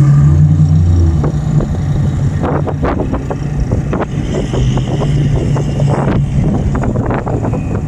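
Small SUV's engine running hard as it drives a rallycross course, holding a fairly steady pitch, with a scatter of clicks and pops from about two and a half seconds in.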